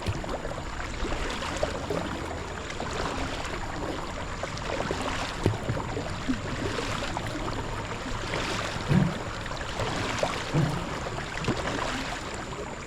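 Kayak paddling: water swishing and splashing with the paddle strokes, with a few short dull knocks.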